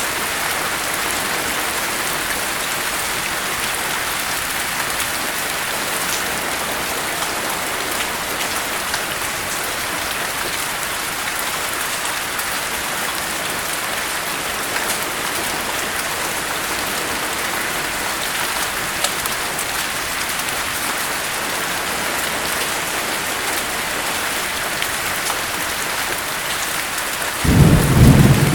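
Steady heavy rain, an even hiss with fine patter of drops. About a second before the end a loud, low thunder rumble breaks in suddenly.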